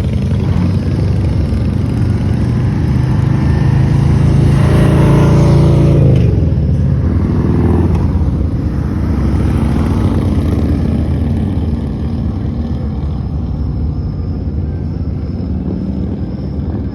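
Motor vehicle engine running on the road with wind and road noise; about four seconds in a louder engine swells, then drops in pitch around six seconds in, like a vehicle going by.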